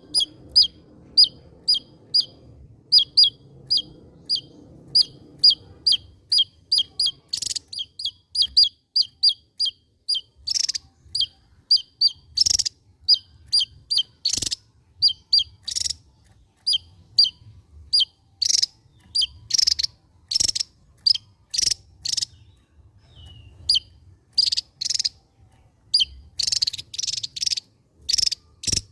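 Javan tesia singing: a long run of short, sharp, high chirps at about three a second. From about ten seconds in, louder and harsher notes are mixed in.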